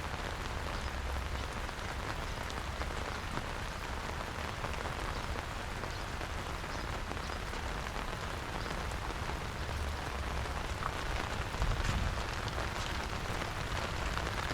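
Steady rain falling, a dense patter of small drops, with a low rumble underneath that swells briefly near the end.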